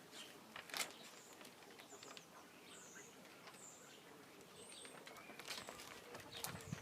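Faint outdoor ambience with a few short, high bird chirps spread through it and several light ticks.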